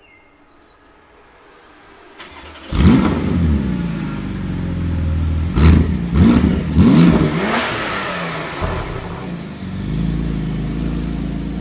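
Porsche 991 GT2 RS's twin-turbo flat-six starting up: a brief crank about two seconds in, then it catches with a loud flare. It is blipped in a few quick revs and settles to a steady idle.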